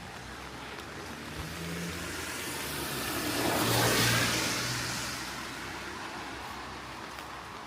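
A car passing by on a wet road: engine and tyre hiss swell to a peak about four seconds in, then fade away.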